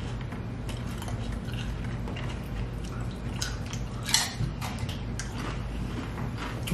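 Chewing and crunching of nachos with tortilla chips, with scattered clicks of cutlery on a dish, the sharpest about four seconds in, over a steady low hum.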